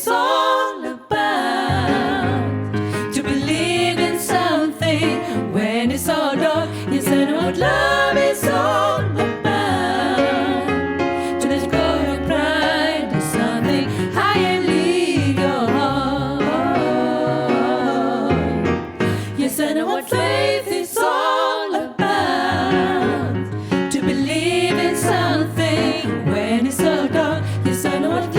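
A women's vocal quartet singing in harmony, several voices moving together over a low bass line, with short breaks about a second in and again near the end.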